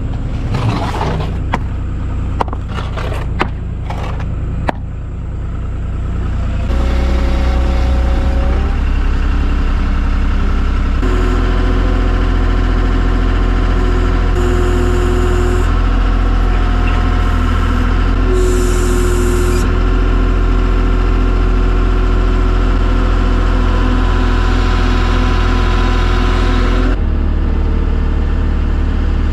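Heavy diesel engine running, with a few clicks in the first seconds. It picks up and gets louder at about seven seconds and again at about eleven seconds, then holds a steady drone.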